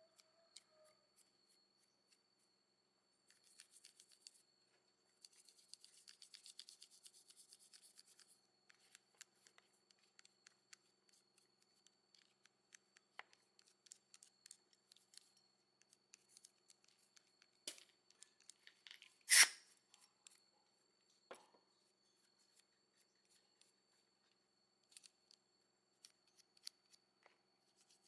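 Quiet handling sounds: scattered light clicks, a run of rapid clicking about five to eight seconds in, and one short, louder scrape about nineteen seconds in.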